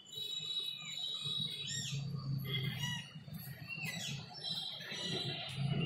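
Birds calling: a few short chirps with curving pitch, about two seconds in, about four seconds in and near the end, over a low steady background rumble.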